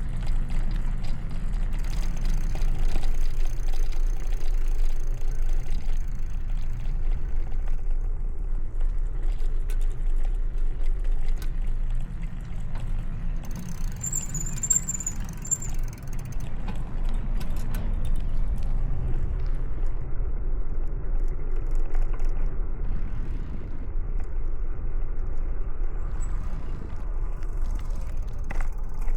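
Steady low rumble of wind on the microphone and road noise while riding a bicycle along city streets, with a brief high squeal about halfway through.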